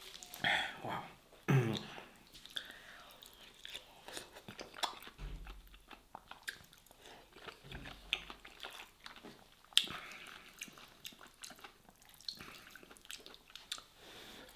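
Close-up chewing and wet mouth sounds of a person eating soft stuffed vegetables (mahshi), with scattered smacks and clicks. There is a brief hum of the voice about a second and a half in, and a sharp click about ten seconds in.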